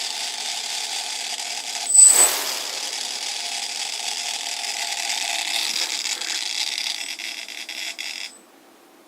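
Brushless motors of a MultiWii multicopter running with a steady whir and high whine, surging briefly about two seconds in. Near the end they run unevenly, fluttering in level, then cut off. This is the strange motor noise the owner is trying to diagnose as a motor problem.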